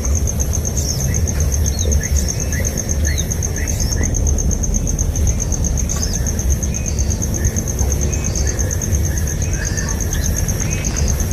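Outdoor ambience: an insect's steady, rapidly pulsing high trill runs throughout, with many short chirps from small birds scattered across it. Under them is a steady low rumble, the loudest part.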